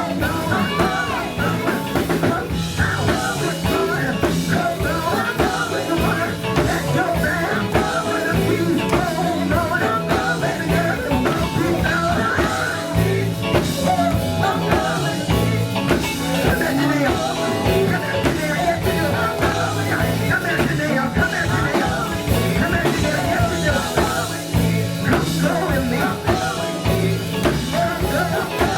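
Live band music with singing over drums and bass, playing steadily throughout.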